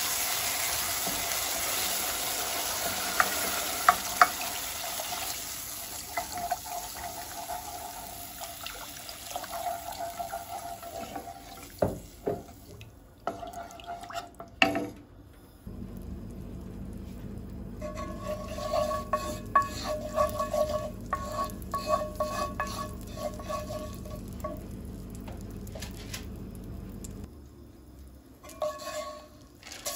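Kitchen cooking sounds: food sizzling in a pan, fading over the first dozen seconds, then a utensil stirring and scraping against cookware with a few knocks. About halfway through, a low steady hum starts suddenly and cuts off near the end.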